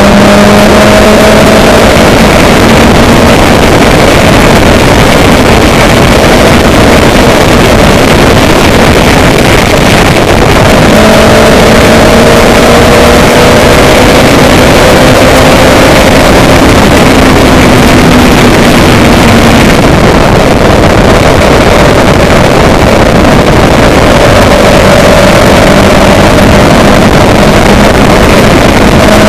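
Engine running under a loud, steady rush of noise, its hum rising slowly in pitch, then dropping back and rising again twice.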